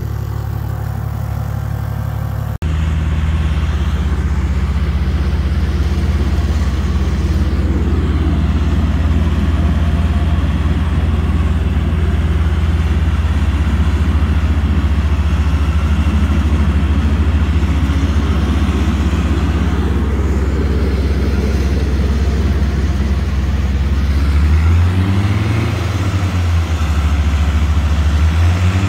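Car engine running steadily under load, with a brief break about two and a half seconds in. Near the end the engine is revved up and back down twice.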